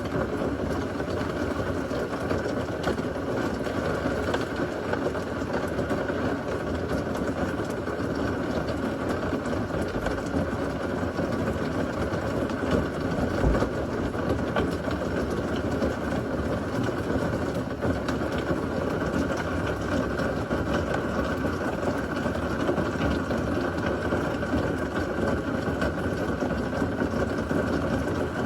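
Heavy rain from a severe thunderstorm falling steadily as a dense, even rushing noise, with one brief low thump about halfway through.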